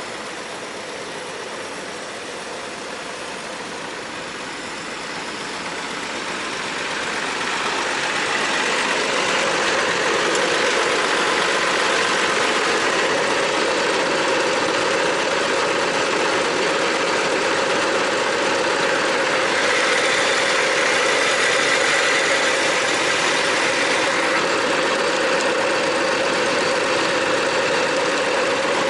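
Six-cylinder diesel engine of an Iveco Eurotech truck running steadily. It grows louder a few seconds in, then holds steady.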